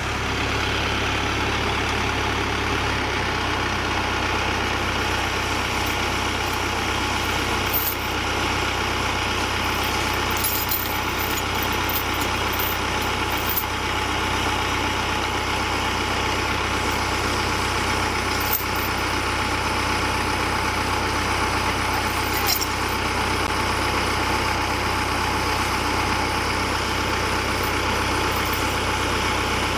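Tractor engine running steadily at a constant speed, with a few light clicks along the way.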